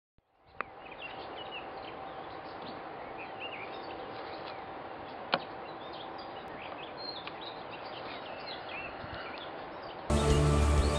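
Small birds chirping and singing over a steady outdoor hiss, with a faint steady hum and two sharp clicks, one near the start and one about halfway through. Music starts near the end.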